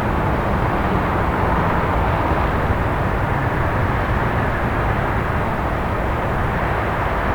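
Steady city night ambience: an even rumble of distant traffic with no separate events standing out.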